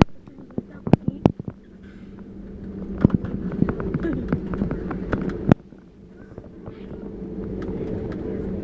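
Airbus A320 cabin during taxi: a steady engine and cabin hum, with scattered sharp clicks and knocks. The sound drops suddenly about five and a half seconds in, then builds back up.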